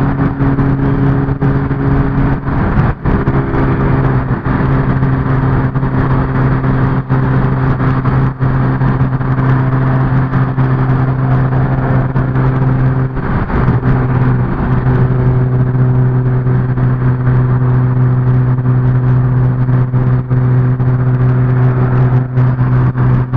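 Car engine droning at a steady cruising speed, holding one pitch, over a constant rush of tyre and road noise.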